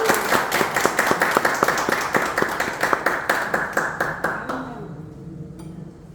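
Audience applauding after an ocarina piece ends. The clapping dies away after about four and a half seconds.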